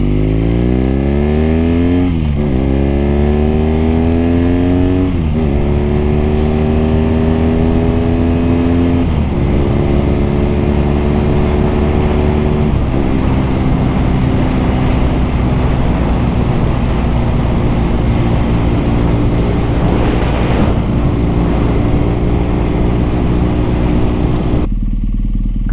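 BMW R nineT boxer-twin engine and exhaust accelerating hard through the gears. It shifts up four times in the first thirteen seconds or so, the pitch climbing and dropping each time, then holds a steady cruise.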